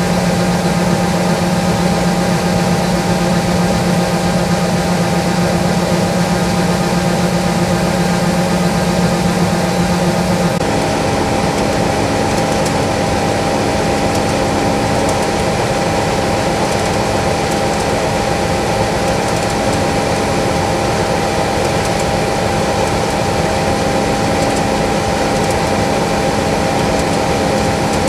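John Deere S660i combine harvester running while harvesting rice: a steady, dense machine drone with several constant hums. About ten seconds in the sound changes, the lowest hum dropping out and a slightly higher one taking over, with less hiss.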